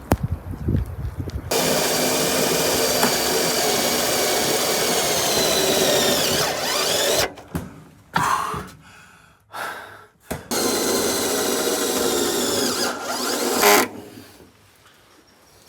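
A power tool's motor running in two long, steady runs of several seconds each. Its pitch winds down as the first run ends.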